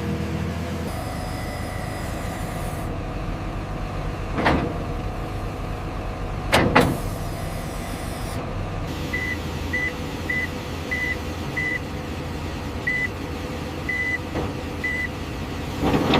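Heavy machinery running with a steady low drone, broken by a few sharp knocks: one about four seconds in, a close pair a couple of seconds later, and one at the end. A run of short, high beeps at one pitch comes in the second half.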